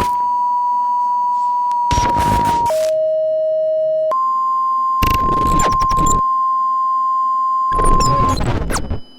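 Emergency alert broadcast tone: a steady, loud electronic beep near 1 kHz that drops to a lower pitch for about a second and a half a little after two seconds in, then returns slightly higher. Three bursts of harsh, crackling digital noise break over it, and the whole signal cuts off suddenly near the end.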